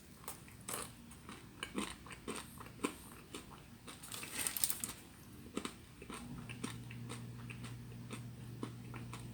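A person chewing and crunching food, with many small irregular crunches and clicks and a louder noisy burst about four and a half seconds in. A low steady hum comes in after about six seconds.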